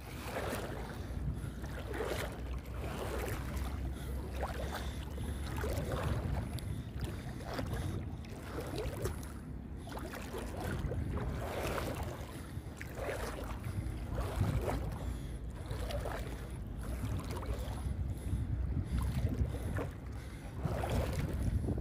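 Wind rumbling on the microphone, with water sloshing in repeated swells every second or two.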